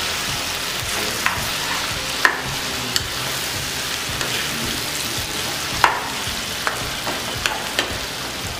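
Chicken pieces frying in oil in a kadai with onions and spices, sizzling steadily while a spatula stirs them, with several sharp knocks of the spatula against the pan.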